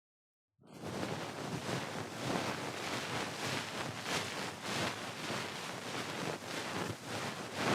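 Ear pick scraping and rubbing close against the microphone: a dense, irregular run of scratchy strokes that starts abruptly just under a second in and cuts off suddenly at the end.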